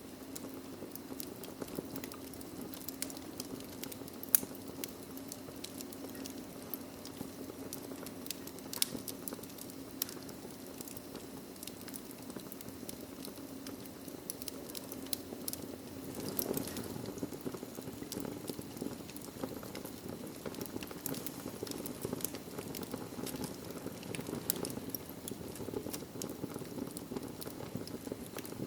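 Wood fire crackling in a fireplace: a steady low rush of burning with frequent sharp pops and snaps, one louder pop about four seconds in.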